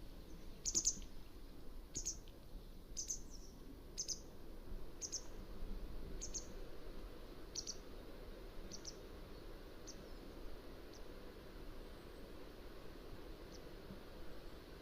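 Mountain wagtail calling: a series of short, sharp, high-pitched notes, about one a second, growing fainter and sparser in the last few seconds, over a steady low background hiss.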